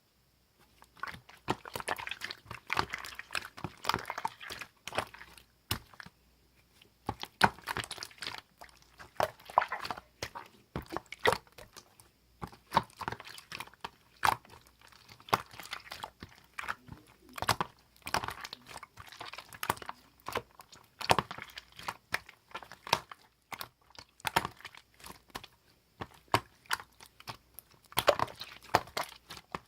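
Yellow clear slime being squished and pressed by hand, giving bursts of wet clicking and crackling pops.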